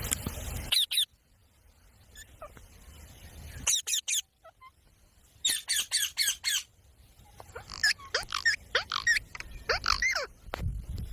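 Pet parrot calling: a quick run of about six shrill screeches, then a string of chirps and whistles that slide up and down in pitch.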